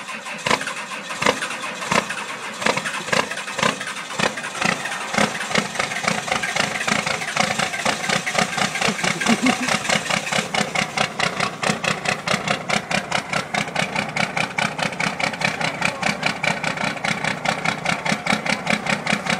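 1990 first-generation Dodge Cummins 12-valve 5.9 L inline-six diesel running rough just after a cold start with no block heater. It fires unevenly at first, then settles over the next several seconds into a steadier, faster rhythmic idle.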